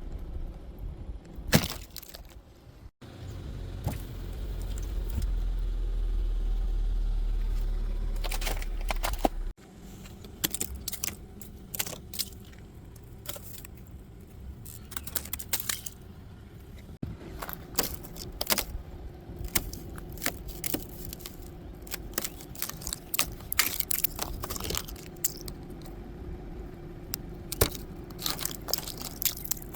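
Thick ice being broken and chipped off a car: a run of sharp cracks, clicks and scrapes, with small pieces tinkling. For several seconds near the start a steady low rumble runs underneath.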